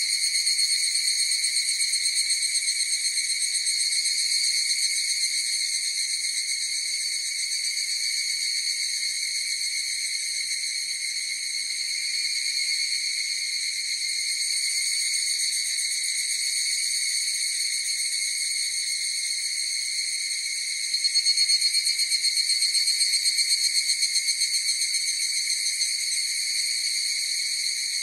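Higurashi (evening cicadas, Tanna japonensis) calling in chorus: a continuous high, shrill trill with no break. It swells, with a rapid pulsing, about 21 seconds in for a few seconds, then eases back.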